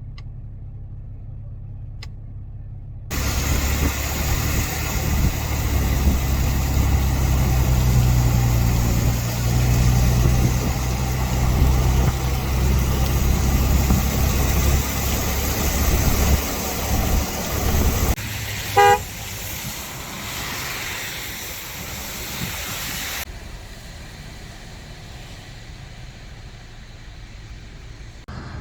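Loud, steady rushing noise with a heavy low rumble under it, both starting and stopping abruptly. A single short car-horn toot sounds about two-thirds of the way through.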